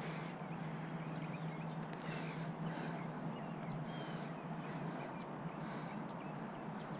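Faint outdoor ambience: a steady soft hiss and low hum with scattered light ticks and a few distant bird calls.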